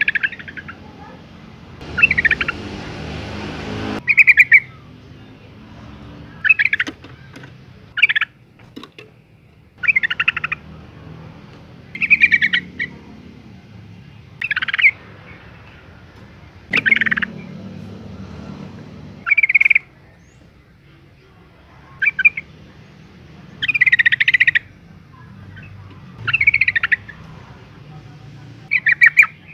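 Female yellow-vented bulbul calling: short calls repeated about every two seconds.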